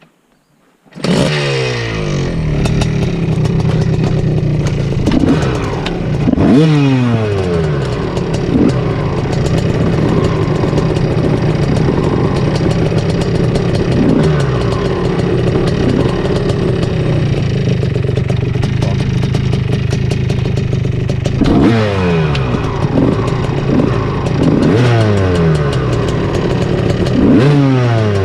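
Two-stroke dirt bike engine ridden hard on a trail, starting suddenly about a second in. The engine note climbs and drops again and again as the throttle is worked and gears change.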